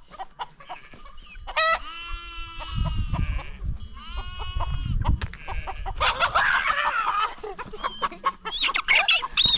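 Chickens squawking and clucking, loudest and most agitated from about six seconds in, among goats bleating in separate calls. A low rumble runs through the middle.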